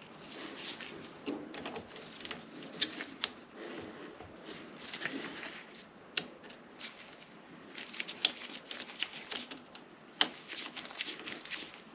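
Scattered, irregular small clicks, taps and rustles of hand tools and parts being handled during assembly work.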